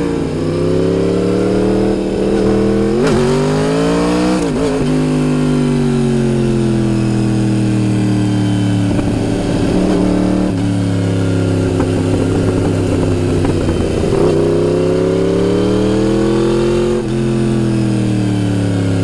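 Motorcycle engine recorded on board while riding, its pitch rising and falling with the throttle through the bends, over steady wind noise. Quick gear changes come about three and four and a half seconds in, where the pitch climbs and then drops sharply.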